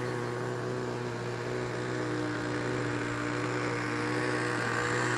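Radio-controlled model aircraft's engine running at a steady pitch, a little louder toward the end.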